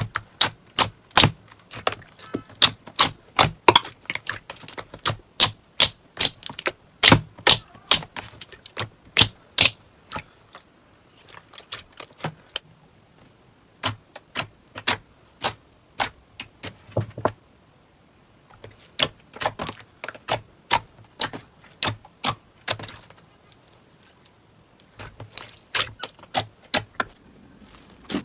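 Slime being squeezed and worked by hand, giving sharp, irregular popping clicks a few times a second, with brief lulls between bouts.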